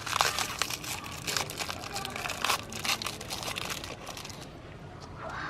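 Hard lollipops being crushed in a meat grinder, a dense run of sharp crunching and crackling that thins out about four and a half seconds in.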